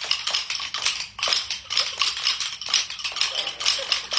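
Wooden rhythm sticks struck together by a group of children and an adult: a ragged, uneven run of sharp clacks, several a second, counted out in fives.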